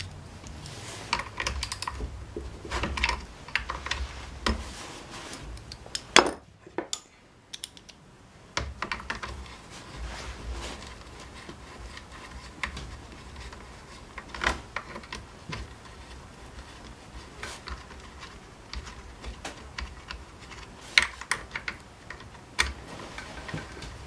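Irregular clicks, taps and clinks of hand tools and small metal and plastic parts being handled as a Honda UMK-422 trimmer is taken apart. The loudest knock comes about six seconds in, followed by a brief quiet pause.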